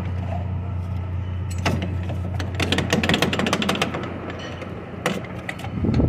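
A steady low engine hum under a quick run of sharp metallic clicks and clinks in the middle and a few more near the end: mechanic's work on a car's noisy steering rod, which is being greased to cure the noise.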